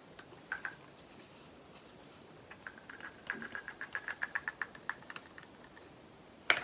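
Diamond painting resin drills rattling as they are tipped and shaken into a small plastic storage pot, a quick run of light ticks. Two sharp clicks near the end.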